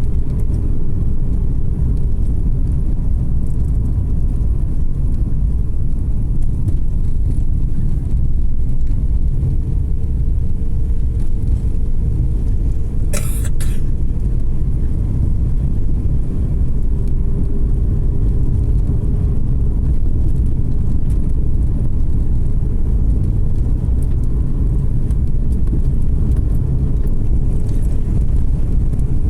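Car driving on a road: a steady low rumble of engine and tyre noise with a faint steady whine. A brief burst of noise a little under halfway through.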